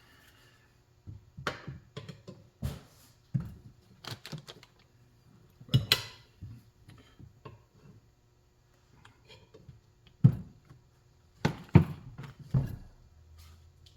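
Tire levers clacking and knocking against a motorcycle wheel rim while a tire bead is levered on: a run of irregular sharp knocks with short pauses, the loudest about six seconds in and again around ten to twelve seconds in.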